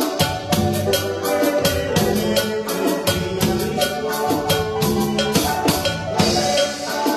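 Instrumental passage of band music with no singing: a drum kit keeps a quick, steady beat over bass and pitched melody instruments.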